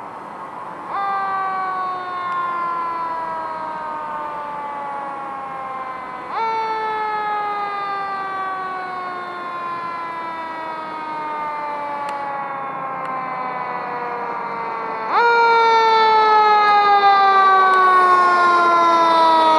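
Fire truck siren sounding in long sweeps: each one jumps up quickly in pitch and then slides slowly down over several seconds, three times, becoming much louder near the end as it comes closer.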